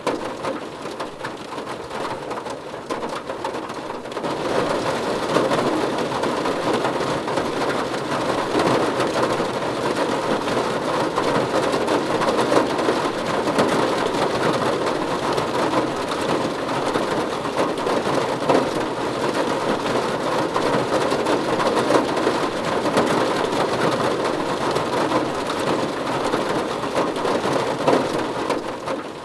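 Heavy rain falling steadily on a surface, growing louder about four seconds in.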